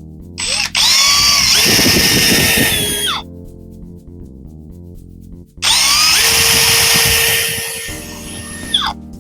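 Power drill run twice, about three seconds each time, its motor whine rising as it spins up and falling as it stops, pre-drilling pilot holes in the wooden door jamb boards. Background music plays underneath.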